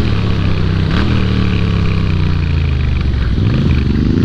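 Moto Guzzi V7's air-cooled transverse V-twin under way, with wind rush. The engine note falls steadily as the bike slows for a bend, then climbs again over the last second or so as it accelerates out.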